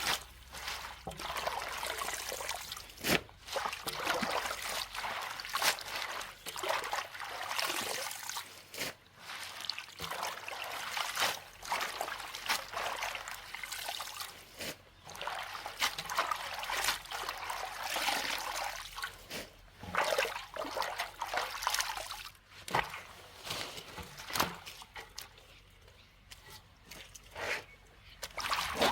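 Water trickling and splashing unevenly, with many small clicks and knocks throughout.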